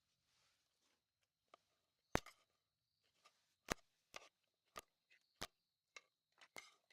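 Sparse sharp clicks and knocks of eating utensils on plates during a meal, about six of them, the loudest about two seconds in.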